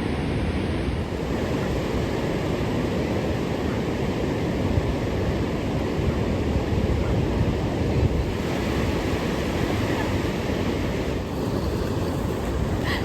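Ocean surf breaking and washing on a beach, a steady rush, with wind rumbling on the microphone.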